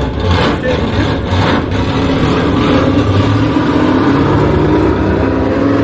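Dodge Coronet's Mopar big-block V8 running steadily.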